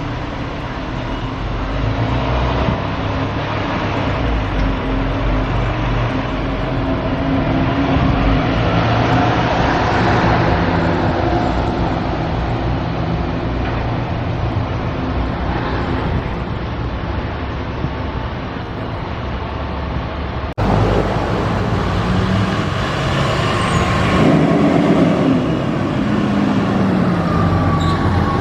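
Fire apparatus in traffic: a heavy engine runs steadily under a slow, rising-and-falling siren tone. The sound changes abruptly about two-thirds of the way through.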